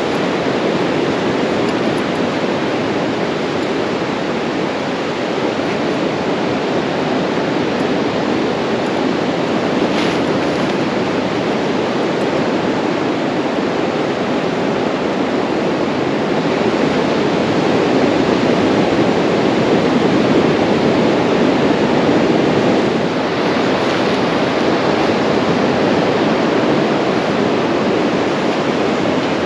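Pacific surf breaking on a beach: a steady rushing wash of waves that grows somewhat louder for a few seconds about two-thirds of the way through.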